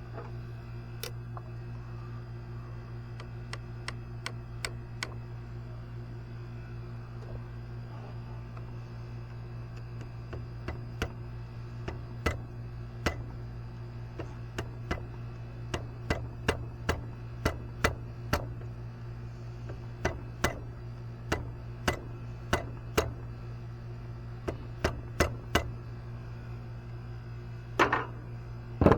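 Irregular sharp clicks and knocks of hands-on work with tools on metal, coming more often from about ten seconds in, over a steady low hum.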